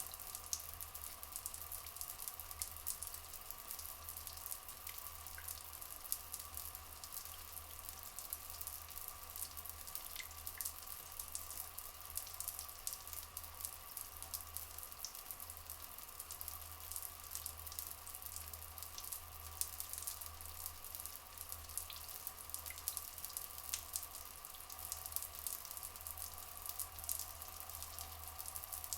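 Flowing water running steadily with a fine, dense crackle, over a constant high-pitched drone that does not change.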